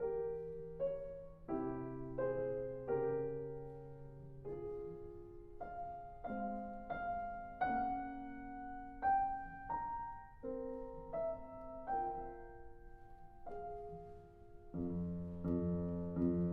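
Background piano music: a gentle melody of single notes and chords struck every half second or so, fuller near the end.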